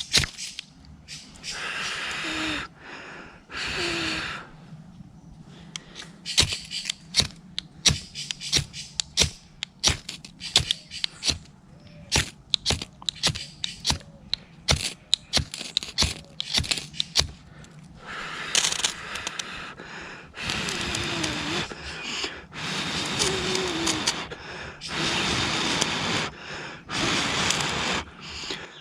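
Knife blade scraping a ferrocerium rod in repeated strokes to throw sparks onto tinder. Each stroke is a one- to two-second rasping hiss, with many sharp clicks and ticks between them.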